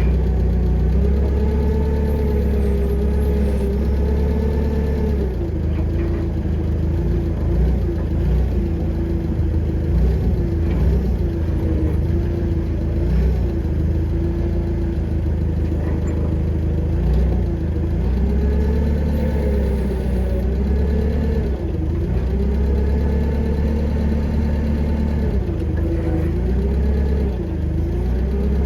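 An engine running steadily, its pitch drifting slightly up and down every few seconds.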